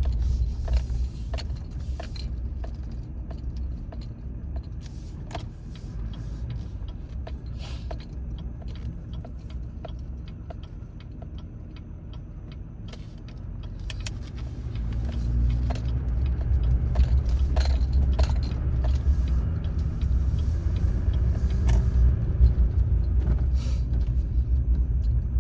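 Pickup truck heard from inside the cab while driving slowly, a steady low engine and road rumble that gets louder about halfway through. Light clicks and rattles run throughout.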